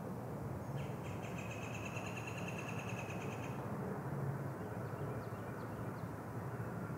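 A bird trills for about three seconds, a quick run of repeated high notes starting about a second in, with a few short faint chirps near the end. Underneath is a steady low hum and hiss.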